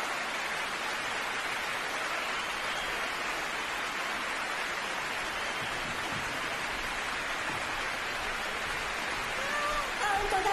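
Concert-hall audience applauding, a steady even clatter of many hands clapping; a voice begins near the end.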